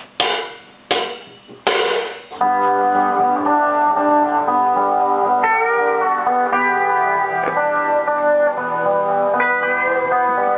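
Three sharp count-in clicks about 0.7 s apart, then a rock band's instrumental intro starting about two and a half seconds in: sustained guitar chords with a melody line over them.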